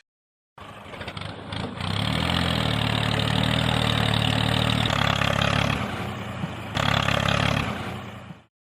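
Engine running steadily. It starts abruptly about half a second in, builds over the first couple of seconds, dips briefly past the middle and picks up again, then cuts off suddenly near the end.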